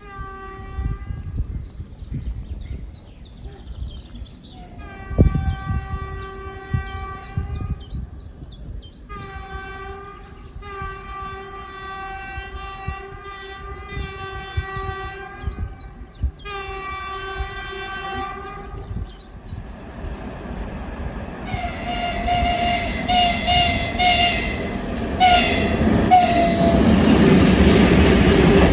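Diesel locomotive horn sounding a series of long blasts, then several short, higher-pitched blasts as the train draws near. The train's rumble and wheel noise build up and are loudest near the end.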